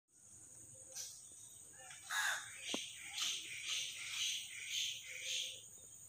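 A bird calling repeatedly, about two calls a second, starting about two seconds in, over a steady high insect drone.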